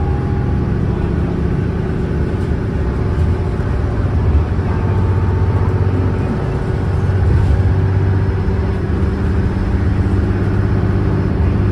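Cummins ISLe straight-six diesel of an Alexander Dennis Enviro500 double-decker bus running under way. The engine note holds fairly steady and shifts in pitch a couple of times.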